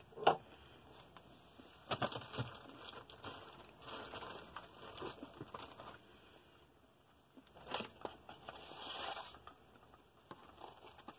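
A person chewing a sugar cookie close to the microphone: scattered crunchy, crackling bursts with short pauses between them.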